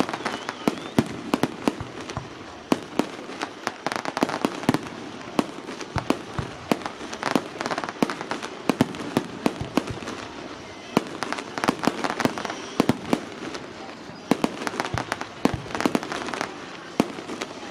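Fireworks display: aerial shells bursting in quick succession, a dense string of sharp bangs several times a second over a steady din.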